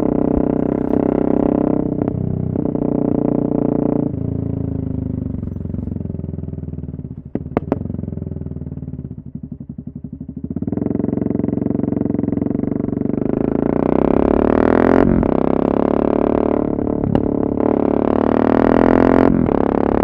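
Yamaha MT-03 660's single-cylinder engine running loud through an exhaust with the dB killer removed: it pulls through two gear changes, drops back on a closed throttle with a few sharp pops about seven seconds in, then accelerates hard again through several upshifts.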